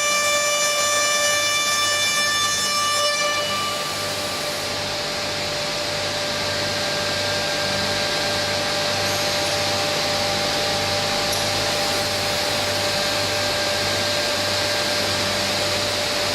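Machinery of a CNC door frame grooving line running: a high, many-toned machine whine stops about three and a half seconds in, leaving a steady hiss and hum with a low pulse about twice a second.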